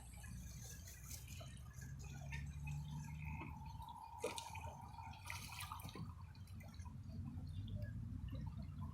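Faint water lapping and dripping at the shoreline, with a few soft ticks and a faint thin tone for a couple of seconds in the middle.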